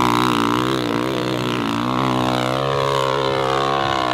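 Hill-climb dirt bike engine running hard at high revs, its pitch wavering up and down as the rider works the throttle.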